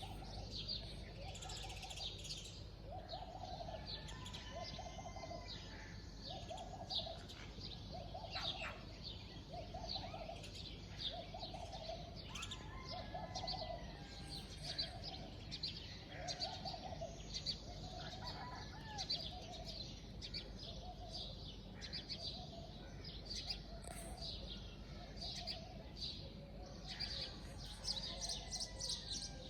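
Several birds chirping and calling together: many short, high chirps, over a lower call repeated roughly once a second, with a steady low background rumble.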